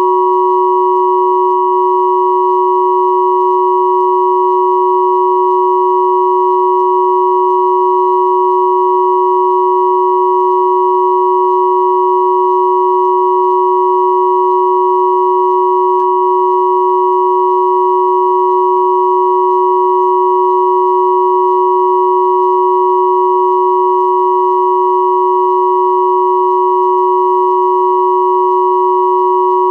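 Three steady pure sine tones at 369 Hz, 963 Hz and 1111 Hz sounding together, unchanging and continuous: a synthesized 369+963+1111 Hz 'healing frequency' tone.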